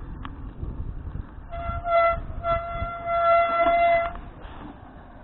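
A horn sounds twice on one steady pitch: a short blast, then a longer one of about a second and a half. Low wind and road rumble runs underneath.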